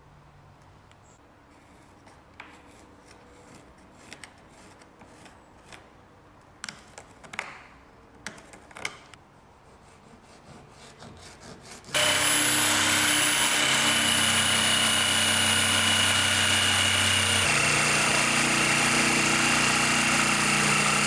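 A few light clicks and taps of parts being handled, then about halfway through a handheld power tool starts up suddenly. It runs steadily at full speed with a high whine and cuts off at the end.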